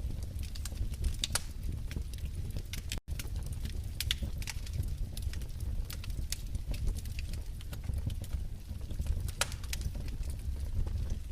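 Wood fire crackling in a fireplace: irregular sharp pops and snaps over a steady low rumble, with a split-second dropout about three seconds in.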